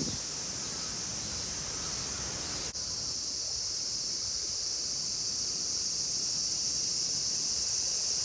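Cicadas shrilling in a steady, unbroken high-pitched chorus that dips for a moment about two and a half seconds in.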